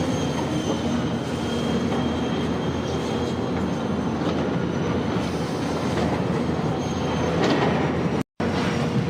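Heavy truck with a coupled trailer running with a steady rumble, faint high squealing tones over it. The sound cuts out for a moment near the end.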